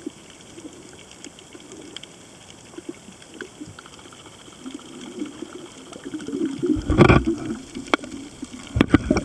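Underwater ambience picked up by a camera resting on a coral reef: a faint steady hiss with scattered small clicks. From about seven seconds in, loud low rumbling sets in, with a heavy knock and then several more knocks near the end.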